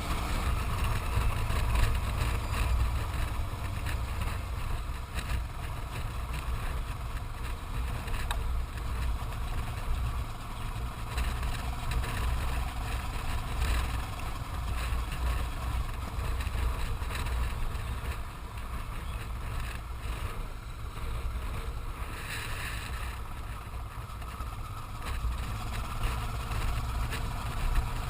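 Motorcycle on the move, its engine running under a steady, heavy rumble of wind on the microphone.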